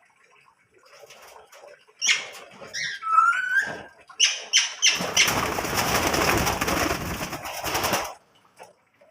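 Small cage birds chirping and calling, then a burst of wing flapping lasting about three seconds that stops suddenly.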